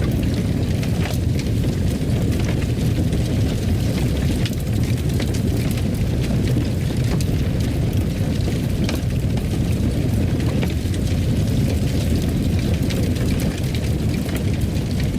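Fireplace fire burning, a steady low rumble of flames with frequent sharp crackles and pops.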